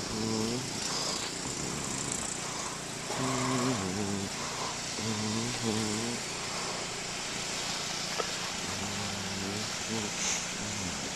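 A man's indistinct voice in short stretches over a steady rushing noise.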